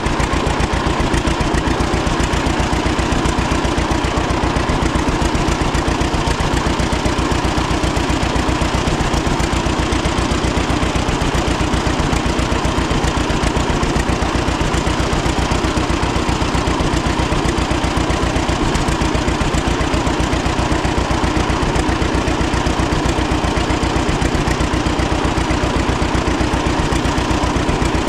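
1936 John Deere Model A's two-cylinder engine running steadily at idle with an even, unchanging beat.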